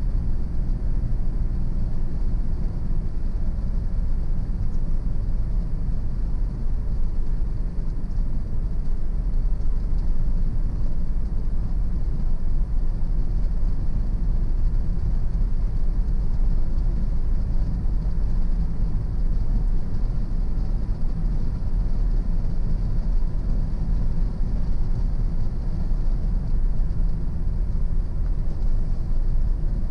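A car driving at a steady speed: the even low rumble of its engine and tyres on the road.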